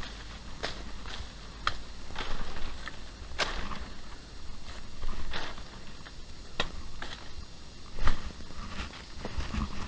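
Footsteps of a hiker walking a trail, heard close up from a chest-worn camera: uneven crunching steps about one a second, the loudest a little past the middle.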